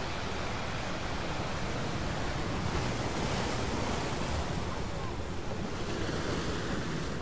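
Ocean waves washing in a steady rush, swelling about three seconds in and easing off toward the end.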